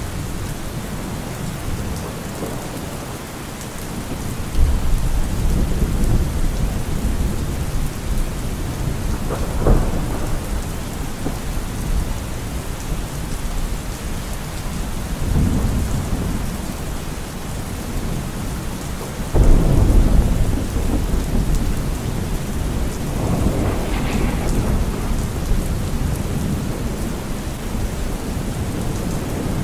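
Steady rain with repeated rolls of thunder, five or so low rumbles swelling and fading. The loudest breaks in suddenly about two-thirds of the way through.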